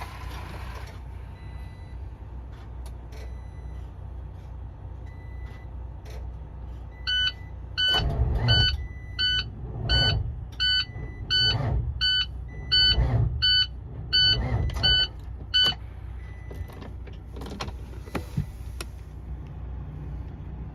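Truck engine running with a steady low drone. Partway through, an electronic warning beep sounds about twice a second for roughly eight seconds, alongside heavy low pulses about every second and a half.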